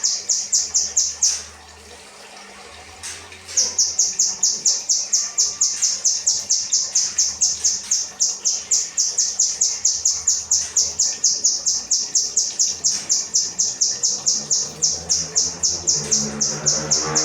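A kinoi songbird repeating one high, sharp note in a fast, even series of about five a second: its 'rambatan' song. The series breaks off for about two seconds near the start, then resumes.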